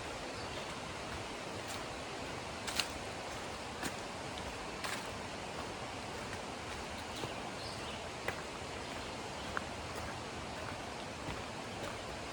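Steady rush of a river's running water, with scattered light clicks and crunches of footsteps on the trail every second or two.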